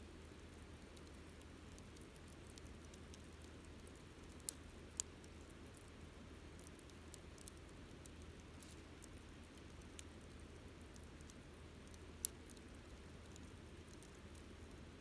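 Campfire burning faintly: a soft steady hiss with scattered sharp crackles of burning wood, a few louder pops, the sharpest about twelve seconds in.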